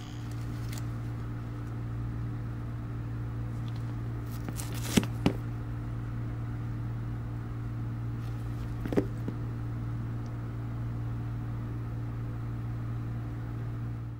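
Mummy Anubis tattoo machine running with a steady low buzz, with a few sharp clicks about five and nine seconds in.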